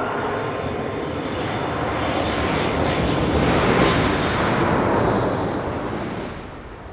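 An aircraft flying a display pass. Its engine noise swells to its loudest about four seconds in, then fades away.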